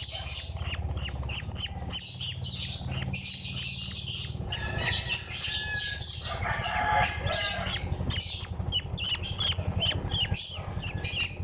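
Young African lovebird calling, a rapid string of short, high, raspy calls several a second, over a steady low hum.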